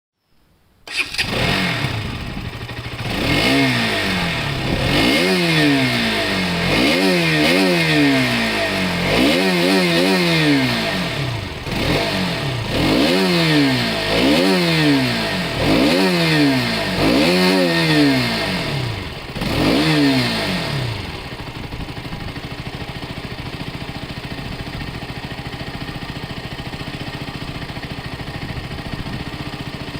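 Motorcycle engine starting about a second in, then revved about ten times, each rev rising and falling in pitch, before settling to a steady idle for the last third.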